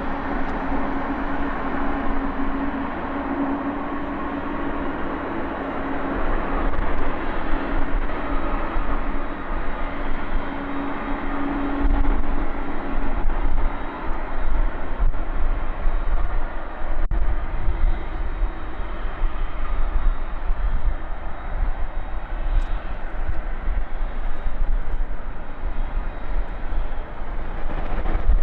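Jet engines of a Boeing 747-400 freighter, a continuous loud rush with a steady hum that fades out about halfway, while a deep rumble grows stronger from about six seconds in.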